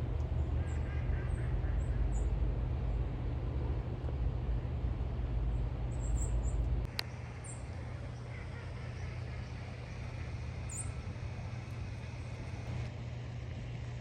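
Steady low outdoor rumble with a few faint, short high bird chirps. About seven seconds in there is a sharp click, and the rumble drops quieter.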